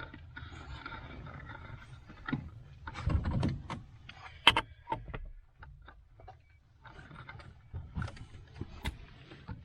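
Handling noises under a truck's dashboard: scattered knocks and clicks with rustling, over a steady background hiss, the sharpest click about four and a half seconds in.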